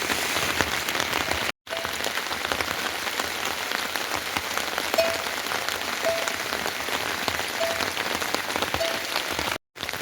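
Heavy rain falling steadily, with the dense patter of drops hitting surfaces. The sound drops out to silence for a moment twice, and a short faint chirp recurs about five times.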